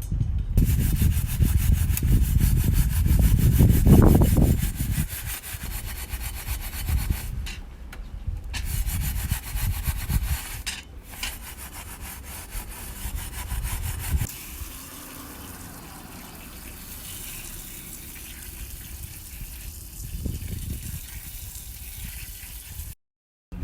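Scrubbing and rubbing on a metal fire pit, a rough rasping that comes and goes, with a heavy low rumble loudest about four seconds in.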